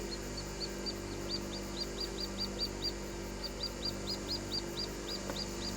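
A bird calling a rapid series of short, high chirps, about four a second, with a brief break about three seconds in.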